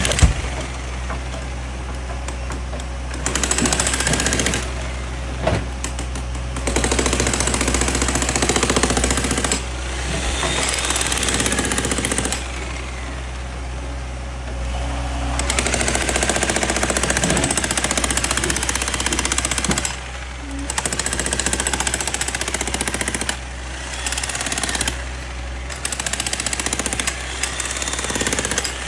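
Hydraulic breaker hammer on a heavy machine pounding concrete in rapid strikes, in stretches of several seconds with short pauses, over the steady run of its diesel engine.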